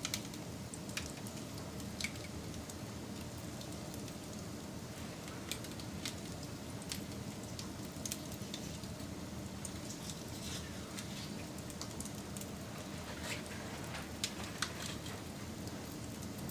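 Campfire burning with a steady low hiss and irregular sharp crackles and pops of burning wood, a few louder pops among them.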